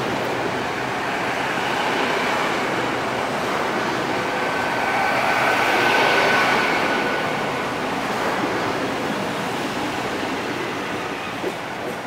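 Great Western Railway passenger train running along the platform: a steady rumble and rush of wheels on rail, swelling about halfway through with a faint high whine at its loudest, then easing off.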